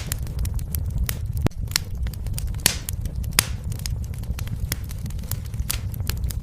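Fireplace fire crackling, with frequent sharp pops over a steady low rumble and a few louder pops near the middle.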